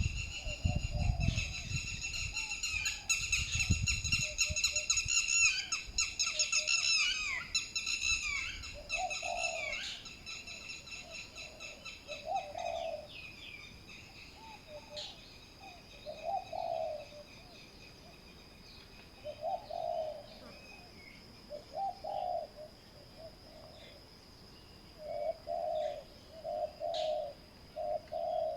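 Spotted doves cooing, phrase after phrase, with a quick run of coos near the end. Over the first ten seconds or so, dense high-pitched chirping calls sound over them, and a thin steady high tone runs underneath.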